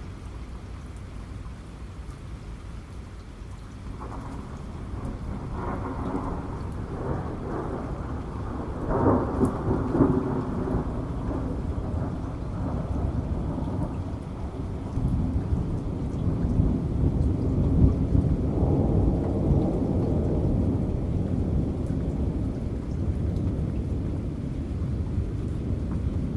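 Rain falling steadily with a long roll of thunder that builds about four seconds in, is loudest around nine to ten seconds, and keeps rumbling under the rain.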